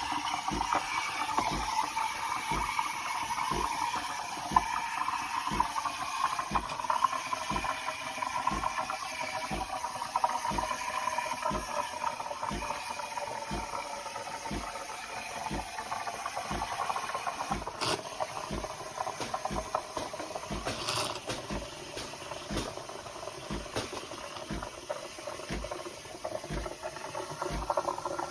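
De'Longhi Dedica Style (EC685) espresso machine running with a steady hiss and rattle. There are regular low pulses about twice a second.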